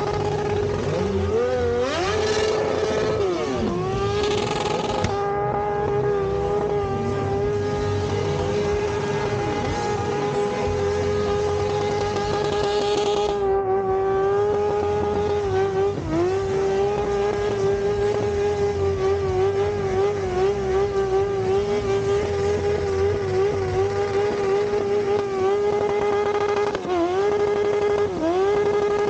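Motorcycle engine held at steady high revs for a long stretch, its note dipping briefly and recovering a few times. A rushing hiss rides over it for a few seconds near the start and again around the middle.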